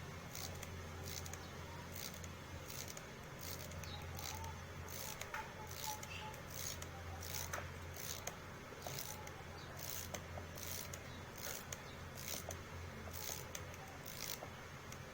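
Bolex D8L spring motor being wound by its crank in half turns, a regular series of short ratcheting clicks and scrapes, about two to three a second. Along with the ratchet there is friction and noise in the winding mechanism, which the repairer takes for old grease and dirt that needs cleaning out.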